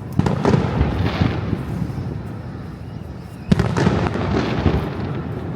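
Aerial fireworks exploding: a cluster of sharp bangs right at the start and another about three and a half seconds in, each trailing off in crackle and a low rumbling echo.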